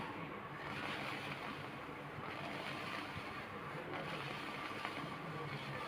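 Water droplets dancing and sizzling on a hot dosa griddle, a steady hiss.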